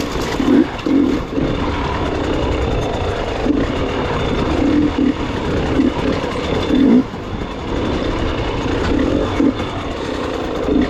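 Gas Gas EX 300 two-stroke enduro motorcycle engine running on trail, the throttle opened in short repeated bursts over a steady rumble.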